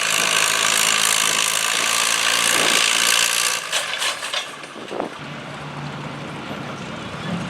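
Antique pulling tractor's engine running hard under load with a loud rushing noise. About four and a half seconds in, after a few clicks, the sound drops to a quieter steady engine hum.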